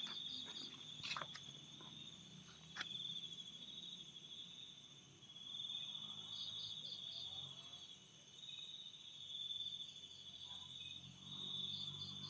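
Insects chirping in a high, pulsing trill that swells and fades in long stretches. A few sharp clicks come in the first three seconds.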